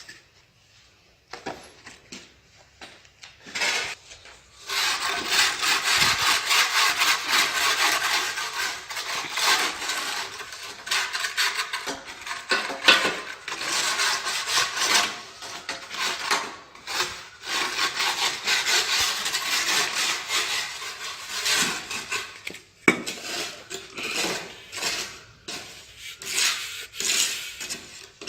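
Hand tools scraping and clinking against tile and mortar during tile laying: continuous rough scraping with many small metallic clicks, starting about four seconds in.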